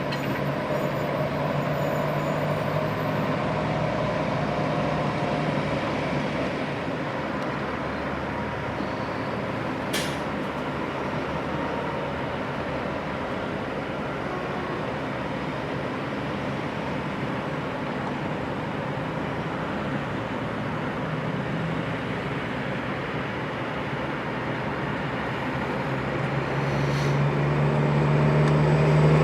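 Heavy diesel truck engine running steadily, growing louder over the last few seconds, with one brief sharp click about ten seconds in.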